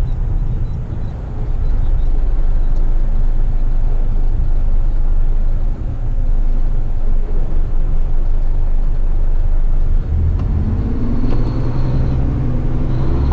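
Eight-wheeler twin-steer heavy rigid truck's diesel engine running on the road, a steady low rumble; about ten seconds in, its pitch climbs as the engine revs up.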